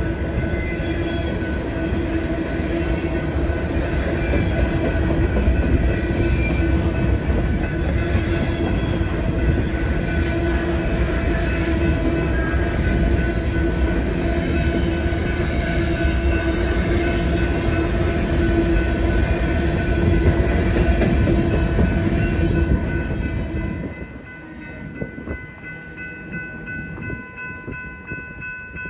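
BNSF freight train cars rolling past at close range, a heavy steady rumble with a constant hum. About three-quarters of the way through the rumble falls away sharply as the train clears, leaving fainter steady high-pitched tones.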